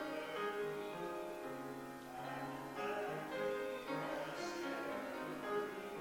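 Slow instrumental keyboard music, held chords changing every second or so.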